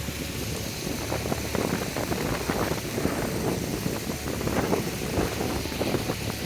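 Wind buffeting the microphone, a continuous gusty rumble.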